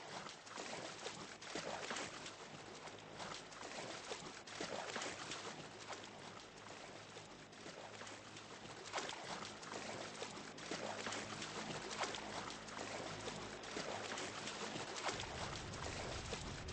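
Water splashing and lapping in many small irregular splashes. A low rumble comes in near the end.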